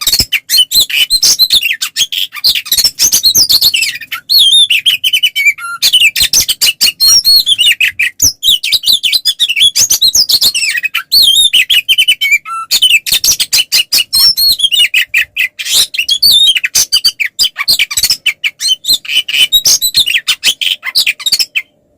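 Oriental magpie-robin (kacer) singing a loud, rapid, nonstop stream of varied chirps, trills and whistles, broken only by brief pauses. It is the full, aggressive 'ngeplong tarung' fighting song that keepers play to provoke other magpie-robins into answering.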